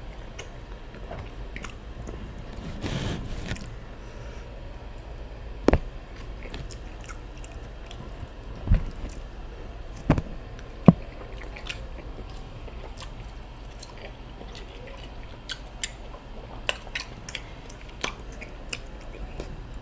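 Close-miked chewing of a person eating rice and stew, with scattered wet mouth clicks and smacks, a few of them sharper and louder.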